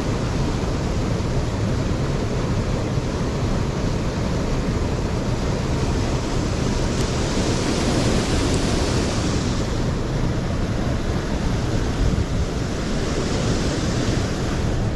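Steady rushing of a mountain stream's running water, with the hiss swelling briefly about halfway through and again near the end.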